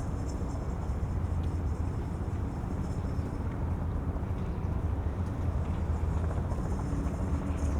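Steady low rumble of waterfront city ambience, with a faint engine-like hum in it that grows a little near the end.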